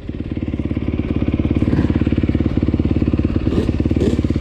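Off-road vehicle engine idling with a fast, even putter that holds steady, not revving.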